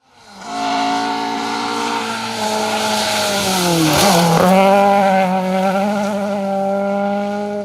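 Rally car engine running hard at high revs. About four seconds in the revs dip briefly and climb back, with a burst of tyre noise.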